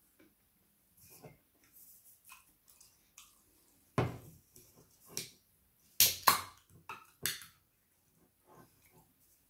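Close-miked eating of fried samosas and onion bhajis: wet chewing and lip smacks, with a few sharper, louder bites about four, six and seven seconds in.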